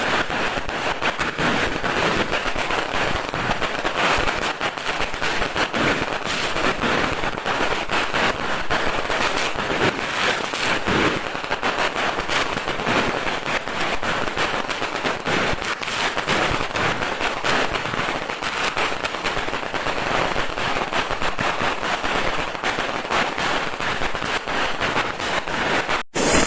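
Firecrackers going off in a long, dense, unbroken barrage: many sharp little bangs every second merging into a continuous crackle. It cuts off abruptly just before the end.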